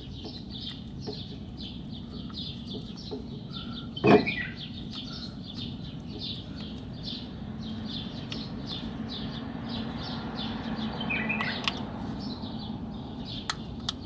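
A small bird chirping over and over at an even pace, about two to three chirps a second, over a steady low hum. One short, loud knock about four seconds in is the loudest sound.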